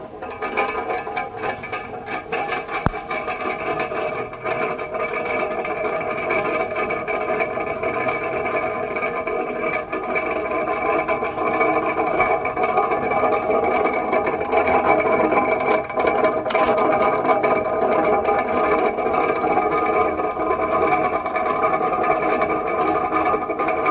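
Comfort Zone 9-inch cradle fan running: a steady motor hum with several fixed whining tones from the spinning aluminum blades. The sound comes up at the very start and then holds even.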